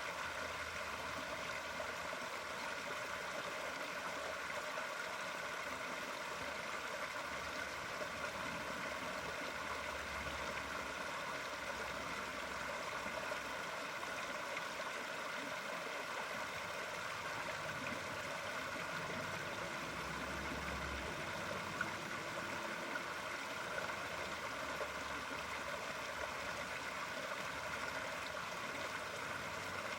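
Steady sound of running water, a continuous flow with a few small splashes.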